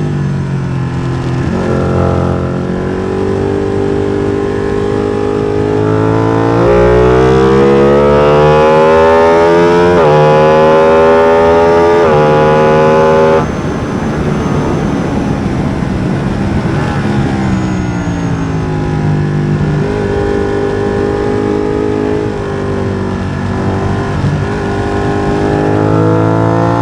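Ducati Streetfighter V2's 955 cc Superquadro V-twin, through a MIVV exhaust without its dB-killer, accelerating hard up through the gears, its pitch climbing and dropping back at each upshift. About halfway through, the throttle shuts suddenly and the engine note falls in steps through downshifts, then climbs again under acceleration near the end.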